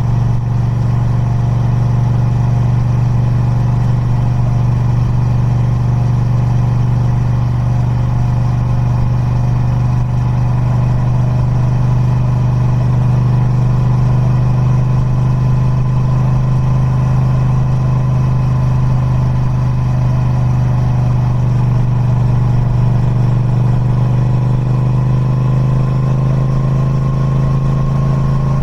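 Triumph Speed Twin 1200's 1200cc parallel-twin engine, breathing through its stock exhaust, running at a steady engine speed. The pitch rises slightly in the last few seconds.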